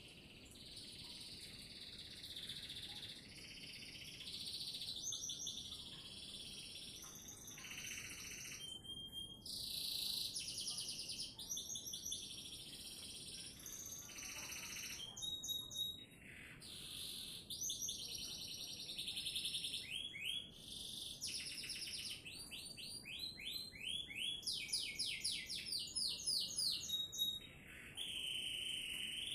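Domestic canary singing a long, continuous song of rolling trills, held notes and fast repeated chirps, with a run of quick sweeping notes near the end.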